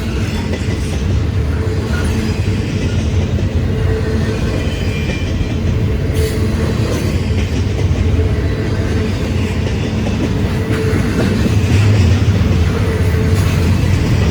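Freight train rolling past on the rails with a steady low rumble and clickety-clack of wheels over rail joints, growing slightly louder near the end.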